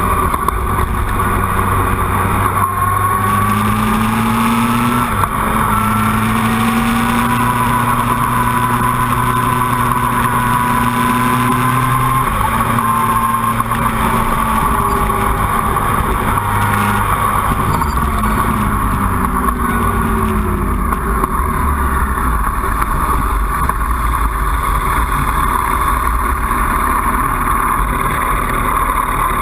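Motorcycle engine running at steady road speed, with wind noise over the microphone. The revs fall about two-thirds of the way in as the bike slows, and the engine settles to idle near the end.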